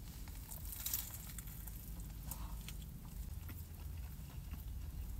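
Faint biting and chewing: a bite taken from a brisket sandwich on a jalapeño cheddar bagel, then closed-mouth chewing with a few soft clicks.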